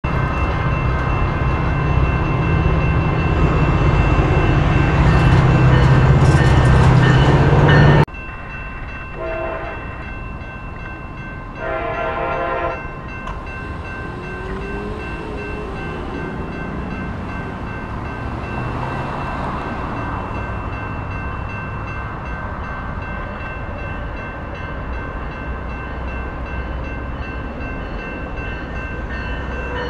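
A loud low rumble cuts off abruptly about eight seconds in. Then a locomotive air horn sounds twice, a short blast and a longer one, and a Siemens SC-44 diesel-electric locomotive hauling a passenger train runs steadily as it approaches.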